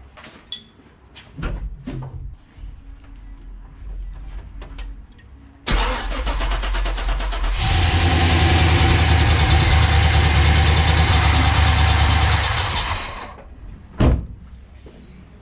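GM LS V8 with eight individual throttle bodies cranking on the starter for about two seconds, then catching and running rough-free and steady for about five seconds before it stops, on its first start after the install. The brake booster vacuum hose is still unconnected. A sharp click follows near the end.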